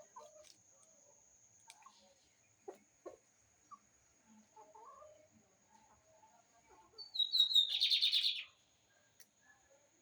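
Lined seedeater (bigodinho) singing one short phrase about two-thirds of the way in: a few quick descending whistled notes running into a dense buzzy trill.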